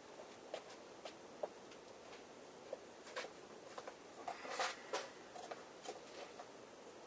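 Faint, irregular light clicks and taps of small hard objects being handled, with a small cluster of taps about three to five seconds in.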